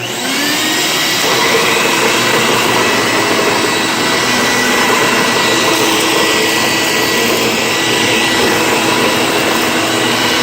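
Electrolux Special Edition upright vacuum cleaner switched on: its motor spins up with a rising whine over the first second, then runs steadily with a whine.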